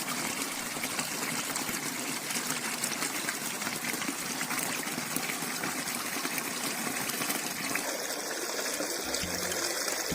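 Steady rush of flowing water, full of fine splashing ticks.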